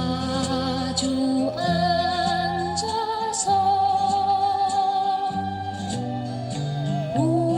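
Musical saw playing a slow melody, holding long notes with a wide vibrato and sliding up into new notes, over a backing track of bass and strummed chords.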